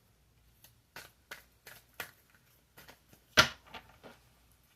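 Tarot cards being handled: a run of short snaps and slaps of card on card, the loudest about three and a half seconds in.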